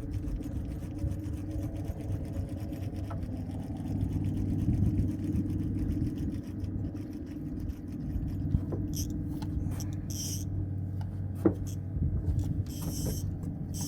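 A steady low mechanical hum, like a motor running, with a few faint clicks and brief hissing noises in the second half.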